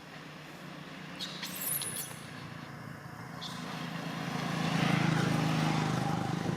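A motor vehicle's engine drawing near, its low hum growing louder to a peak about five seconds in and easing slightly near the end, with a few light clicks earlier on.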